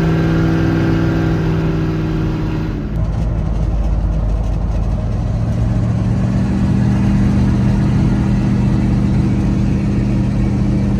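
1982 Ford Bronco's engine running at steady revs while driving. About three seconds in the steady note breaks into a rougher, noisier stretch, and from about six seconds it settles into a steady, slightly higher note.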